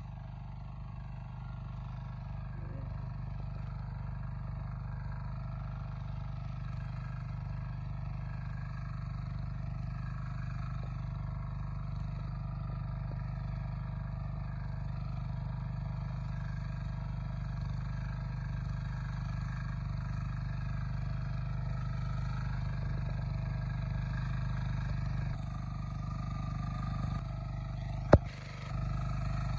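Tractor engine running steadily under load, its low drone slowly growing louder, with a single sharp click a little before the end.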